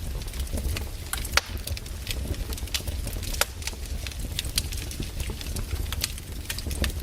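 Wood fire burning, with frequent irregular crackles and sharp pops over a steady low rumble.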